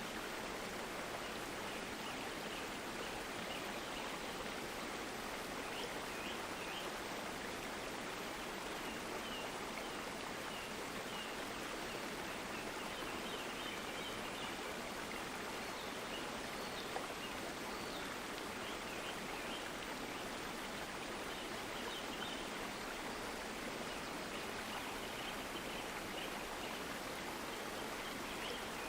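A stream of water flowing steadily, an even rushing that does not change. Faint short high chirps come and go above it.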